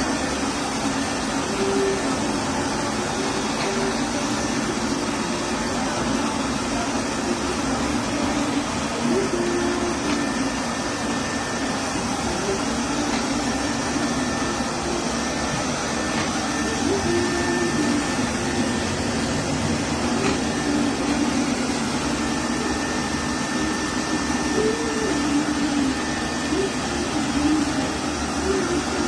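LEFANT M210P robot vacuum running steadily, its suction motor and brushes making an even whooshing noise.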